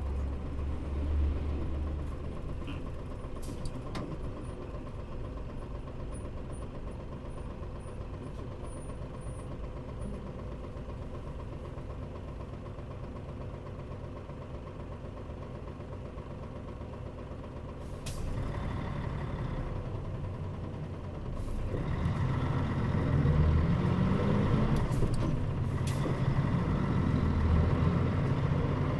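Mitsubishi Fuso Aero Star KL-MP35JM bus heard from inside the cabin: the engine idles steadily, with a sharp air release from the air brakes about two thirds of the way in. The engine then revs up and the bus pulls away, its pitch rising as it gathers speed.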